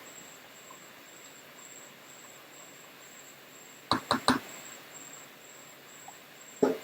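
Three quick, sharp knocks about four seconds in and one more near the end, from handling something in the kitchen. They sit over a faint steady hiss with a high, thin chirp pulsing about twice a second.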